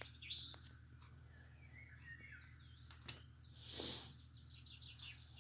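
Recorded birdsong from a YouTube bird video playing faintly through computer speakers: many quick chirps and twitters. A click comes about three seconds in and a brief rush of noise about four seconds in.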